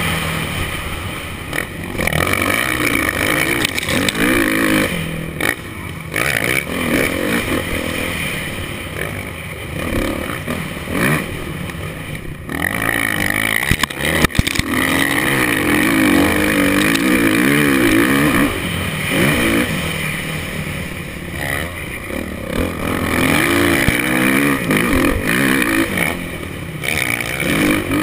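Motocross bike engine heard close up from the rider's helmet, revving up and dropping back again and again as the bike accelerates and slows through the track. A couple of sharp knocks come about 14 seconds in.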